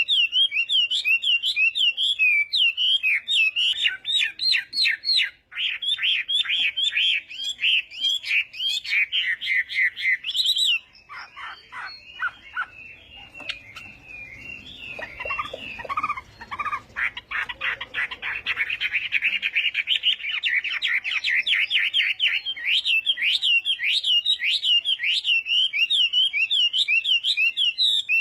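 Chinese hwamei (hoạ mi) singing a loud, fast song of quick repeated whistled notes, several a second. About a third of the way in, the song turns quieter and lower for several seconds before the quick high phrases return.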